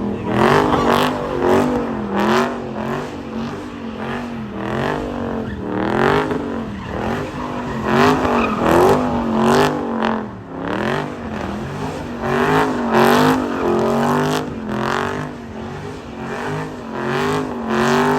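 A car sliding and drifting: its engine revs swing up and down over and over, roughly once a second, with tire squeal.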